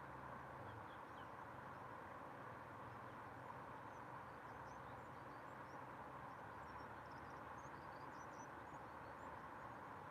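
Faint, steady rush of a river, with faint high bird chirps scattered through the second half.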